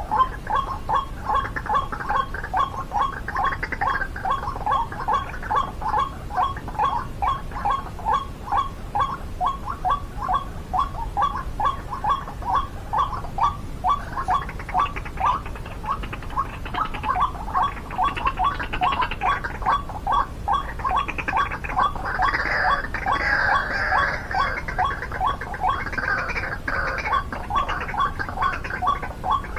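White-breasted waterhen calls: a croaking note repeated evenly, about three times a second. Over the second half, louder and more varied calls join in.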